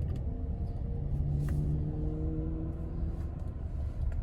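Car cabin noise while driving: a steady low rumble of road and engine, with faint held hums.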